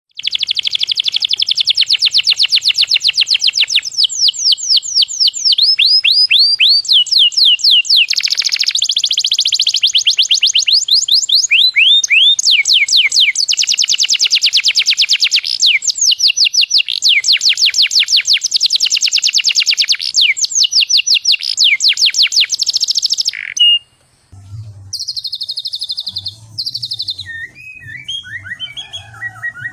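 White-rumped shama (murai batu) singing loudly in long, very fast runs of repeated down-sweeping whistled notes, the rapid 'gacor' song used to provoke other shamas. Near the end it breaks off briefly, then sings more varied, separate phrases over a low steady hum.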